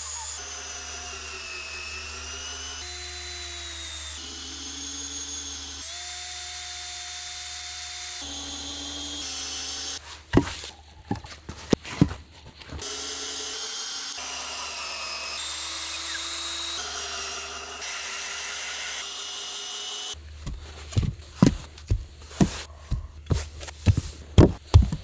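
Power drill driving long plate-head screws through logs into wooden posts, its motor whining at several held speeds. Bursts of sharp knocking come near the middle and again through the last few seconds.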